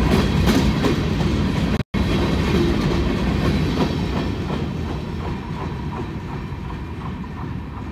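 Freight train of covered hopper cars rolling past close by: a steady rumble with the clickety-clack of wheels over rail joints, dropping out for an instant about two seconds in, then fading as the last car goes by.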